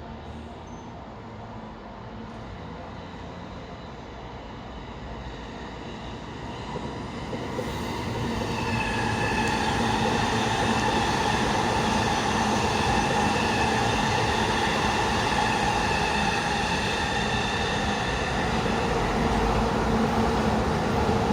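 A train passing close by on the rails, growing louder over the first several seconds and then running steadily loud, with high steady squealing tones over the rumble of the wheels.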